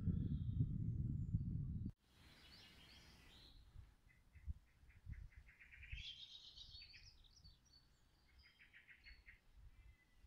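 Low rumbling noise on the microphone that cuts off suddenly about two seconds in, then small birds singing faintly: trilled phrases of quick chirps, one rising at the end, and another short series near the end.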